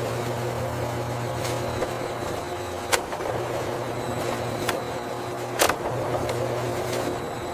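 Machinery running with a steady low hum, punctuated by a few sharp clicks, two of them louder, about three and five and a half seconds in.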